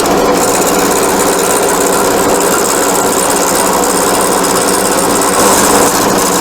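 Wood lathe running steadily with a round carbide-tipped turning tool scraping the spinning finial blank, taking the bumpy edge off to round it.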